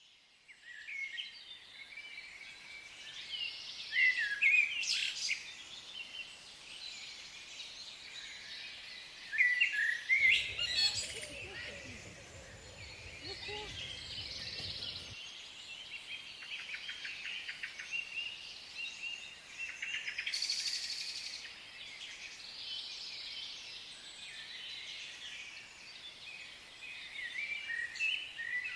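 Many birds chirping and calling at once, a dense chorus of short overlapping calls with louder bursts now and then.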